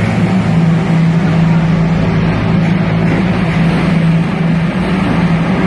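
Motorcycle engines running flat out at a steady, unbroken pitch inside a steel globe of death.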